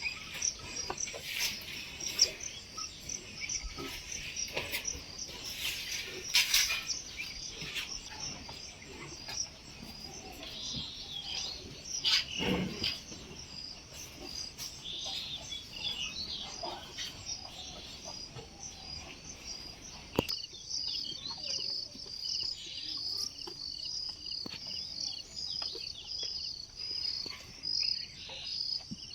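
Countryside ambience of crickets chirping in a steady high-pitched trill, with birds calling and chirping over it. About two-thirds of the way through, the background abruptly becomes quieter and the insects' rapid repeating chirp stands out on its own.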